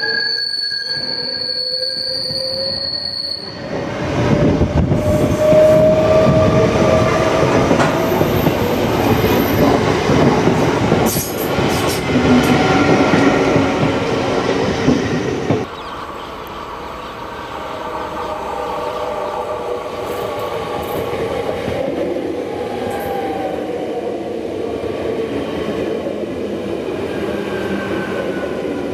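A train running on rails with high squealing tones from the wheels. A loud rumble comes in about four seconds in and drops away suddenly about halfway through, leaving quieter running with faint sliding squeals.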